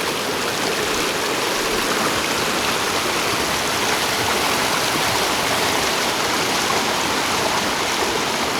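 Fast-flowing mountain river rushing over its bed, a steady, even rush of turbulent water.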